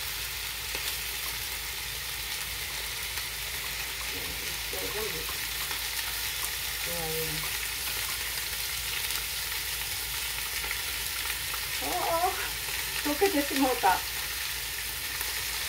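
Pork-loin-wrapped eggplant rolls sizzling steadily as they fry in hot oil. A few brief, low voices come in near the end.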